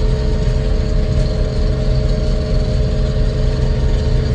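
Vehicle engine running steadily: a constant low drone with a steady hum over it.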